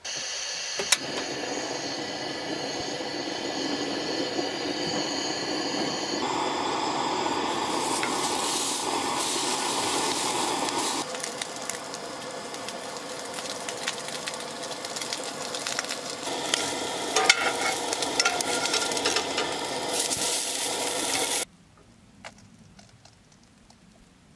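Smokies sizzling and crackling as they fry in a pan on a Coleman propane camp stove. The sizzle shifts abruptly in character a few times, then cuts off to faint background near the end.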